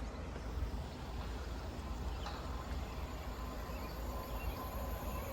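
A Class 350 electric multiple unit approaching from a distance: a faint, steady low rumble, with a thin whine that comes in about three and a half seconds in and grows toward the end as the train nears.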